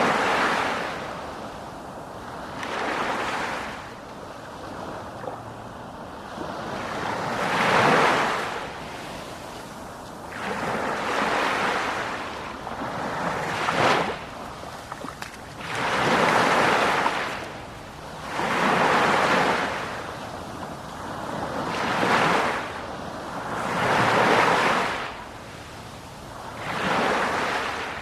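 Sea waves breaking and washing on the shore, in surges that swell and fade every two to three seconds.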